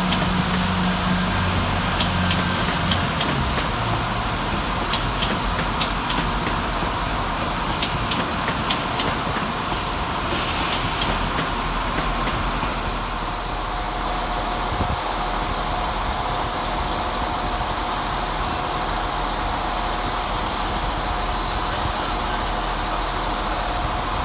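Irish Rail 22000 Class diesel multiple unit running past, its underfloor diesel engines humming low at first over a steady rumble of wheels on rail. Several short high-pitched hissing or screeching bursts come about eight to twelve seconds in. A steady whine sets in about halfway as another 22000 Class unit approaches.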